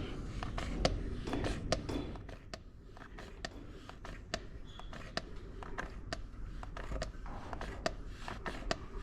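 A series of light, sharp clicks and ticks, irregularly spaced at two or three a second, over a low steady hum.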